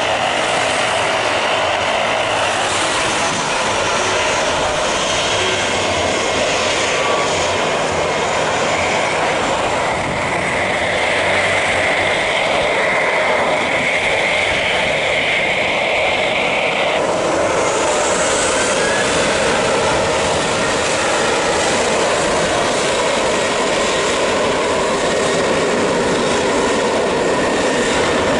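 Jet airliner engines making a loud, steady rush of noise. The sound changes abruptly about two-thirds of the way through, and a brief rising whine follows.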